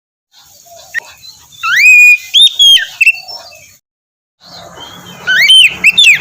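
Oriental magpie-robin (kacer) singing loud whistled phrases of rising and falling notes in two bursts, with a short break about four seconds in.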